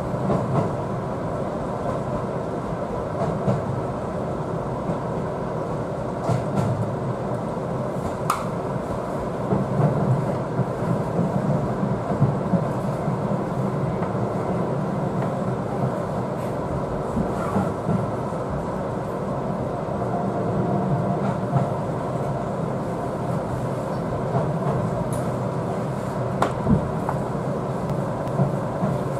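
Seibu 4000 series electric train running, heard from inside the front cab: a steady running rumble with scattered sharp clicks of the wheels over rail joints and points as it draws into a station.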